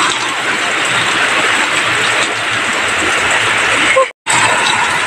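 Heavy rain falling steadily, a dense even hiss. It breaks off for a moment just after four seconds.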